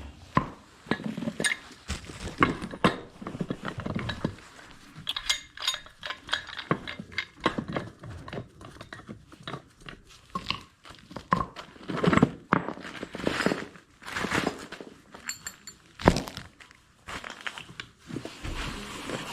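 Irregular metal clinks, knocks and scraping as a threaded steam pipe fitting, its threads heavily coated with sealant, is screwed onto a pipe and worked tight by hand and with tools.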